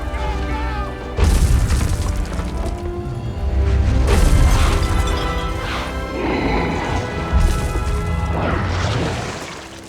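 Film score music with several heavy crashes and booms mixed over it.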